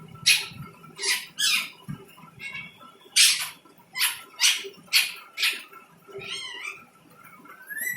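Pet parrot calling: a string of about eight short, harsh squawks, then a wavering call and a rising whistle near the end.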